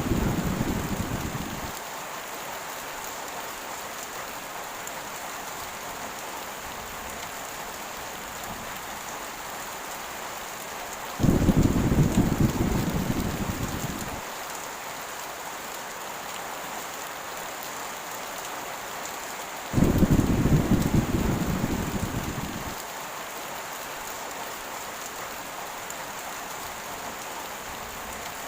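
Heavy rain falling steadily as an even hiss. Low thunder rumbles break in suddenly twice, about 11 and 20 seconds in, each fading away over about three seconds, and another rumble dies away in the first couple of seconds.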